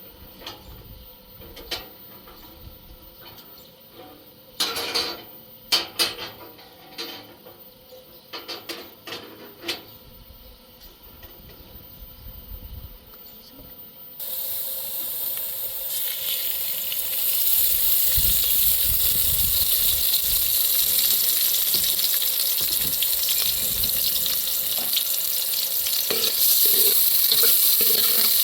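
Food frying in a pan: a few scattered knocks and clicks of utensils, then, about halfway through, a sudden loud sizzle as food meets hot oil, which goes on as a steady frying hiss with a few utensil clicks near the end.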